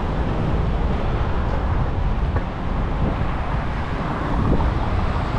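Steady wind rush on the microphone and rolling road rumble from an e-bike being ridden over rough street pavement, with a couple of faint knocks from bumps in the surface.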